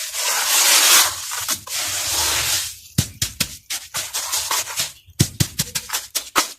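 Dusty moulded crumble material being crushed and broken up: a grainy, gritty rubbing for about the first three seconds, then a quick run of sharp crackling snaps as pieces break apart.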